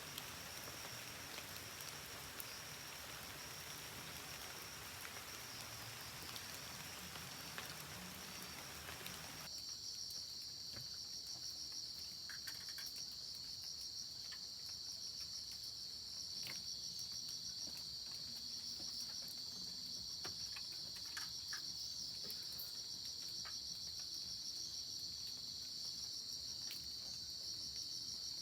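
Night insects, crickets, chirring in a steady high continuous drone. For roughly the first ten seconds an even hiss lies under it, then cuts off suddenly, leaving the insects alone with a few faint ticks.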